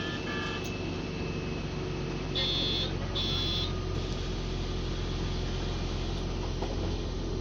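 Steady hum of a moving public-transport vehicle, heard from inside. Two short beeps come right at the start, then two louder, higher electronic beeps about half a second each, around two and a half seconds in.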